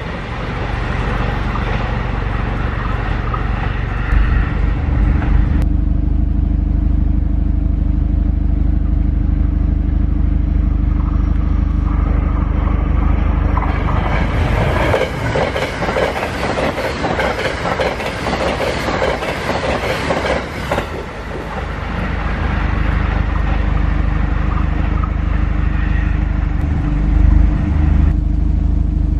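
A JR West 683 series electric limited express train passing close by at speed, in a dense rush of wheel and rail noise that builds and fades over about six seconds around the middle. A steady low rumble lies under it throughout.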